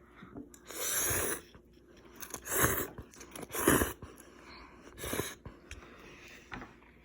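Someone eating hot instant ramen noodles: four loud slurps, with quieter mouth sounds between them.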